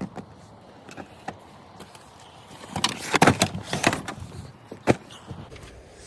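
Bags and gear being unloaded from a vehicle: scattered knocks and handling noise, busiest and loudest about three to four seconds in, with a sharp click a second later.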